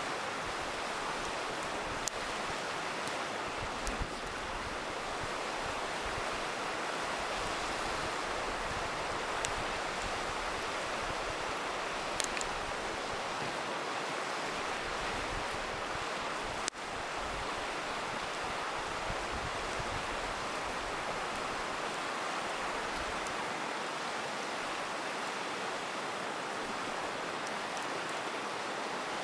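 River rushing steadily, with a few sharp pops and crackles from a campfire.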